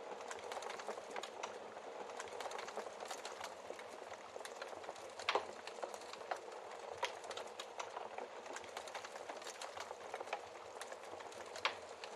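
Wood fire in a fireplace crackling, with many small snaps over a soft hiss and a louder pop about five seconds in and another near the end.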